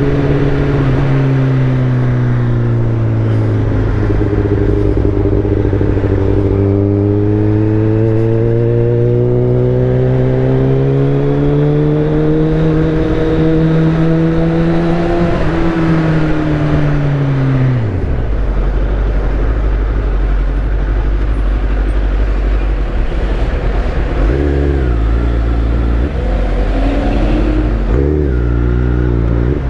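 Kawasaki ZX-10R inline-four running through an Akrapovic full titanium exhaust. It holds a steady pace with the pitch slowly dipping and climbing, then falls off sharply as the bike slows to idle about two-thirds of the way in. Near the end it idles low with a few short throttle blips.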